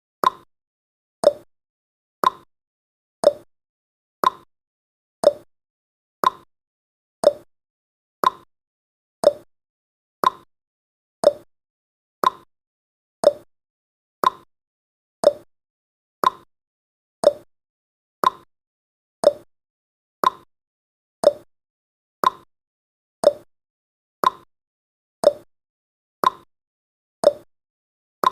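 Clock-style ticking sound effect of a countdown timer: one short tick each second, alternating between a lower and a higher tick like a tick-tock.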